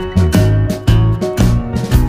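Background music: an upbeat guitar tune with bass and a steady beat.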